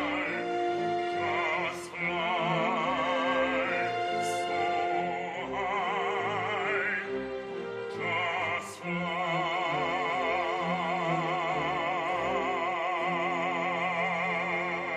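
Operatic singing with strong vibrato over instrumental accompaniment: several short phrases, then one long held note from about the middle on.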